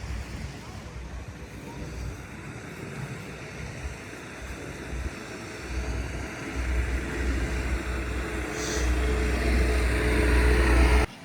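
A vehicle running with a low rumble that grows louder and then cuts off suddenly near the end.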